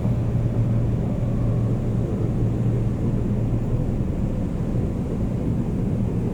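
Seoul Metro Line 9 express train running between stations, heard from inside the car: a steady rumble with a low hum.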